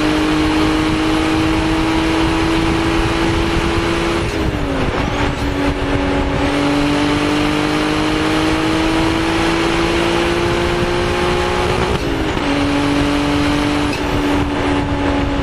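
Toyota Soarer's 1G-GTE twin-turbo straight-six pulling up through the gears, heard from inside the cabin. The engine note rises slowly and drops at two gear changes, about four and a half seconds in and again about twelve seconds in, with road noise throughout.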